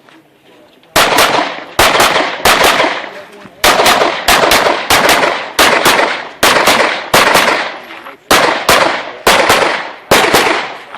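Competition pistol, a USPSA Open-division gun, firing rapid strings of shots, mostly in quick pairs (double taps), about a dozen pairs over roughly nine seconds with short pauses between them as the shooter moves between targets.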